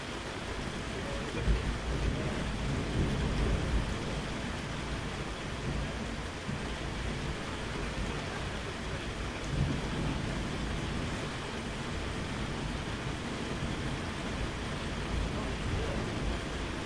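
Steady rain with low thunder rumbling under it, swelling in the first few seconds and again about ten seconds in.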